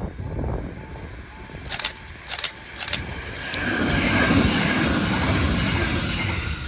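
Merseyrail Class 777 electric multiple unit passing close by, its wheels on the rails swelling into a loud rumble about three and a half seconds in. Throughout, a level crossing's warning alarm sounds a short tone, repeated about twice a second. About two seconds in come three short bursts of hiss.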